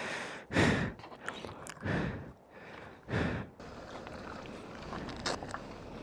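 A person breathing heavily, three loud breaths about a second apart, followed by a quieter steady background noise.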